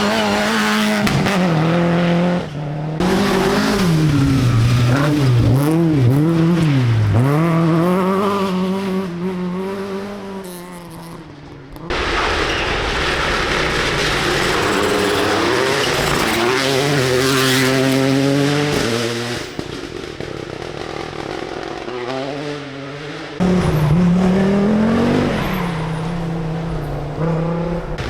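Rally car engines on a forest stage, revving hard and rising and falling in pitch through gear changes and lifts, in several separate passes joined by abrupt cuts.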